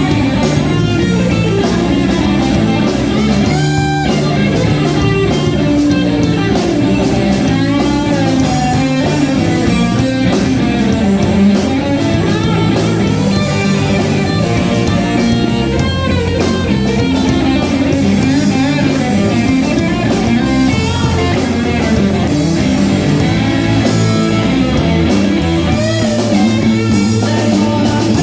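Live rock band of guitar, bass and drums playing a guitar-led instrumental passage with no singing.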